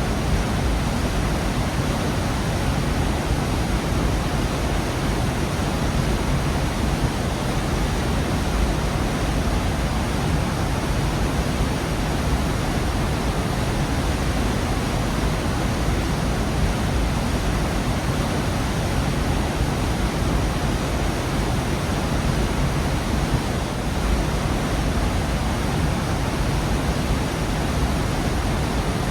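Gorge waterfall: a steady, unbroken rush of falling water, heavy in the low end.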